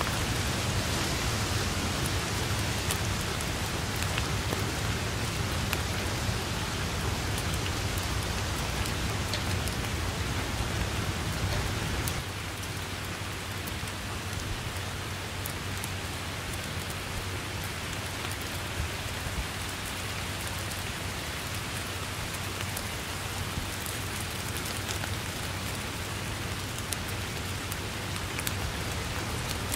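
Steady rain falling, an even hiss with scattered close drop taps. About twelve seconds in, a deep rumble beneath it drops away and the rain goes a little quieter.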